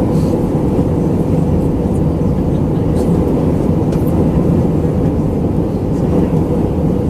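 Steady cabin roar of an Airbus A319-112 in descent, airflow and engine noise mixed, with a faint steady hum running through it.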